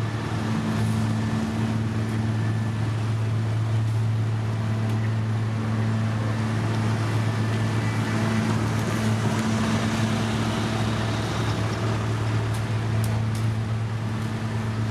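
Diesel engine of a heavy road-construction machine running steadily at a constant speed, a loud even drone with a little noise over it.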